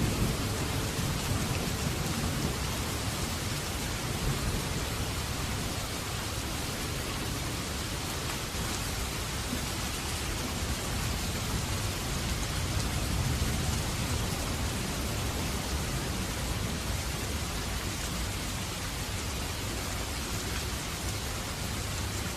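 Steady rain falling, an even hiss of drops with no break. The tail of a low thunder rumble dies away at the very start.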